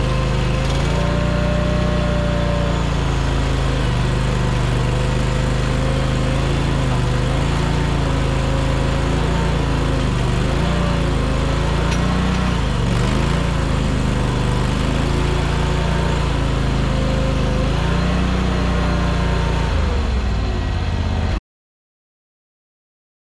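Mini skid steer's engine running hard while powering a hydraulic flail mower through brush, its pitch dipping and recovering several times under load. The sound cuts off suddenly near the end.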